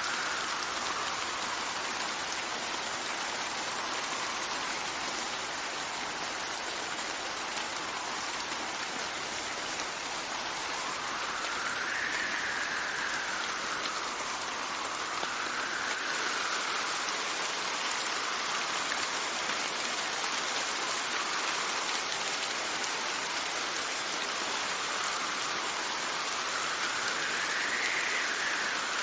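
Steady rain hissing, with wind whistling over it in slow swells that rise and fall in pitch, the strongest gusts about a third of the way in and near the end.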